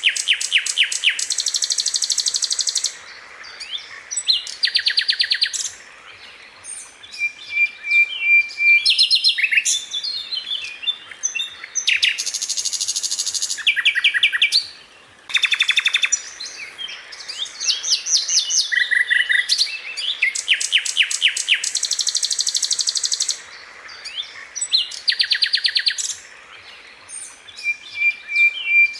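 Sikatan londo flycatcher singing: fast rattling trills and sharp high notes in bursts of one to three seconds, broken by short level whistles and brief pauses between phrases.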